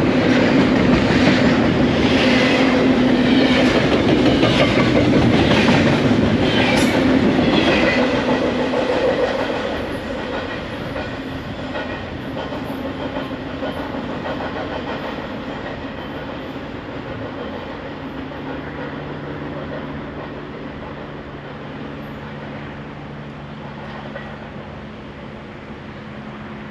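Double-stack intermodal freight train's container well cars rolling past close by, steel wheels clicking rhythmically over the rail joints. About nine seconds in the last cars go by and the rumble fades away as the train recedes.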